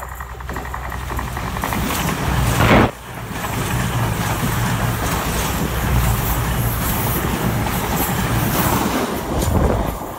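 CrossCountry Voyager diesel multiple unit passing close at speed: a rising rush of underfloor engines and wheels on rail that peaks and drops off sharply as the front cab goes by about three seconds in, then the steady run of the carriages, easing near the end as the train draws away.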